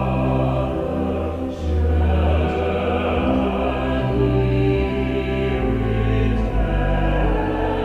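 A vocal quartet singing a choral carol in four-part harmony, over sustained low held notes.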